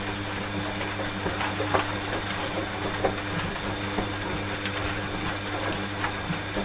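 Washing machine running with a steady motor hum, over an even hiss of rain, with scattered small clicks and ticks.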